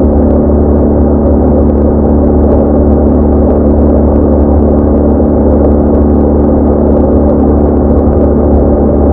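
BMW R1200R boxer-twin motorcycle engine running at a steady cruise, with road and wind noise, its drone holding an even pitch throughout.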